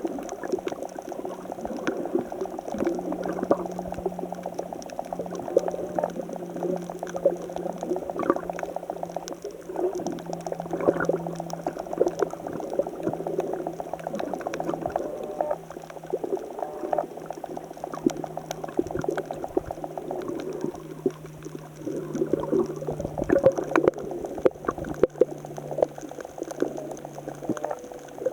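Rough seawater churning and bubbling among rocks, with many small crackles and pops and a steady low hum that slowly drops in pitch.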